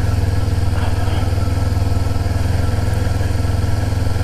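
Motorcycle engine running steadily at low revs, a constant low drone with no revving.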